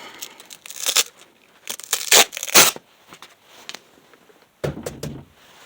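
Sandpaper being changed for a finer grit: a series of short, irregular tearing rasps and rustling as the paper is peeled off and handled.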